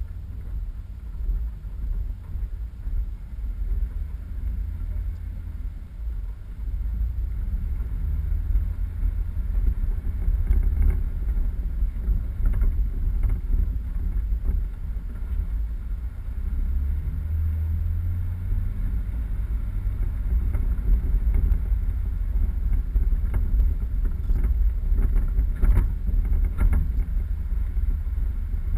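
Low rumble of a 4x4 on the move over an off-road track, with wind buffeting the microphone and a few light knocks.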